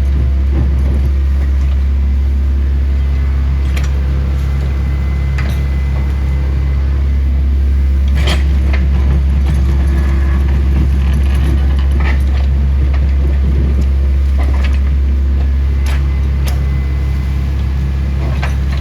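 A heavy engine running steadily with a deep, even drone, with scattered sharp clicks and knocks over it.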